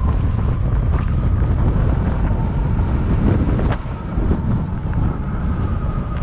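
Wind buffeting the microphone: a loud, steady low rumble, with a brief dip just under four seconds in.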